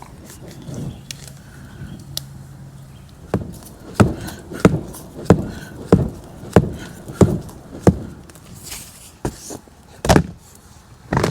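Plastic camping-tote lid fanned hard over a campfire of damp wood, used as a bellows: a run of about eight sharp flaps roughly two every three seconds, with a couple of louder knocks near the end.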